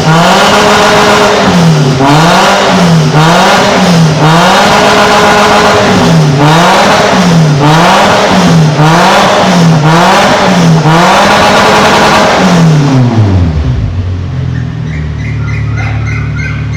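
Toyota Innova's engine revved through a new full stainless-steel exhaust system, held at high revs and dipping briefly about ten times as the throttle is lifted and reapplied. It then falls back to a steady idle about 13 seconds in.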